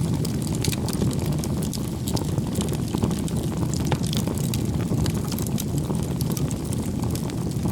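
Wood fire burning: a steady low rumble of flames with frequent irregular sharp crackles and pops from the burning wood.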